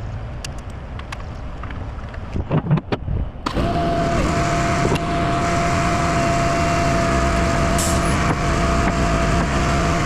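A truck's engine idling with a low rumble and a few clicks, then about three and a half seconds in a loud, steady hiss with a high whine starts and holds.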